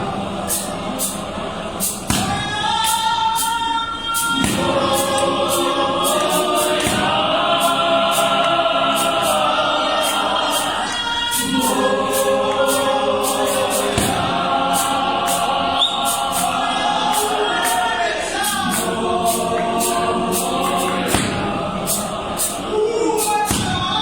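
Gospel choir singing in several-part harmony, long held phrases with short breaths between them, over a steady beat of sharp percussive hits.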